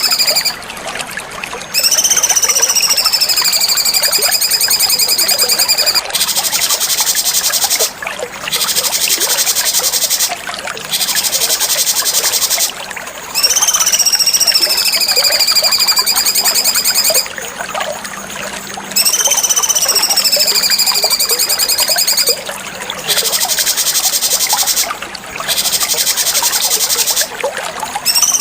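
Cucak cungkok song in a repeating cycle: long high whistled phrases that rise briefly and then slide down, alternating with stretches of rapid, buzzy chattering trills, with short pauses between them.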